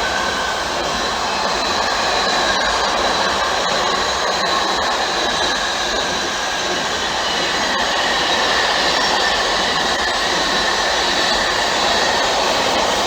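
A train passing on the line: a steady, loud rushing noise of wheels on rail, with faint high whining tones that drift slightly in pitch.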